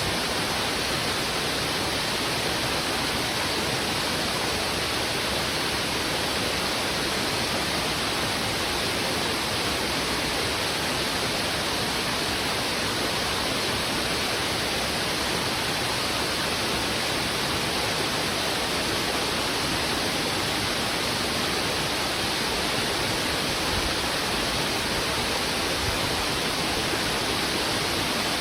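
Heavy river water rushing steadily over rocks: an even, unbroken wash of flowing water with no single splash or call standing out.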